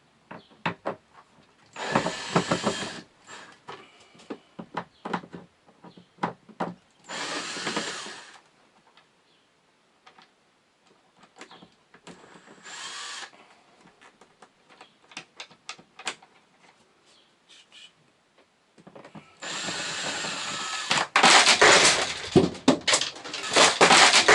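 Power drill driving out screws in four bursts of about a second each, with scattered clicks and knocks between them, as the plastic shroud of an RV's ceiling air-conditioner is unfastened. Near the end there is a run of loud cracking and popping as the plastic shroud comes loose.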